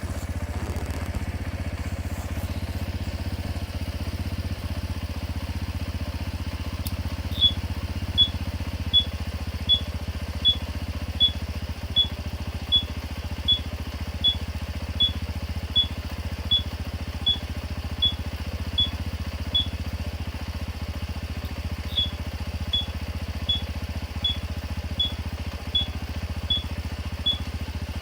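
Honda CD50's small single-cylinder four-stroke engine idling steadily. About seven seconds in, a turn-signal buzzer starts beeping, short high beeps about 1.3 per second. It stops briefly near 20 s and then starts again.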